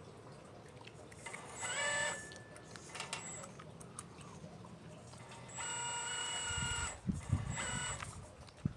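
Electric motors of a radio-controlled Liebherr 954 model excavator whining in short spells, a brief one early, a longer one of over a second in the second half, then a short one near the end. Low thuds come between the last two spells.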